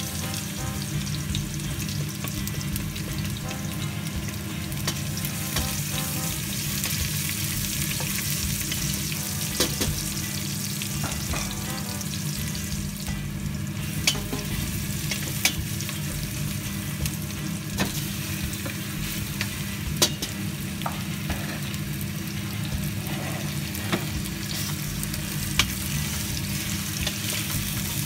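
Chopped onion, ginger and garlic sizzling in hot oil in a stainless steel pot while being stirred with a wooden spatula, with a few sharp knocks of the spatula against the pot.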